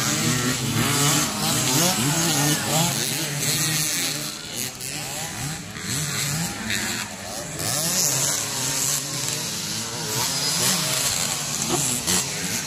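Several motocross dirt bike engines revving, their pitches rising and falling and overlapping as the bikes ride the track.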